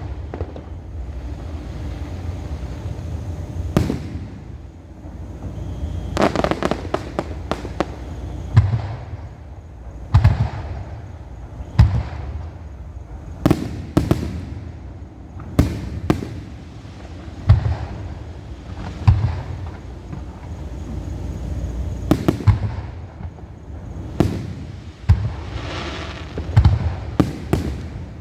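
Fireworks show: aerial shells bursting one after another, a sharp bang every one to two seconds, with clusters of rapid crackling bursts about six seconds in and again near the end.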